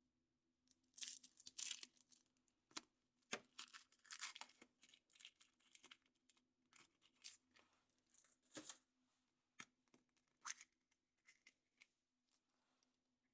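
A wrapper being torn open and crinkled by hand, a quick run of irregular crackles and rustles that thins out toward the end.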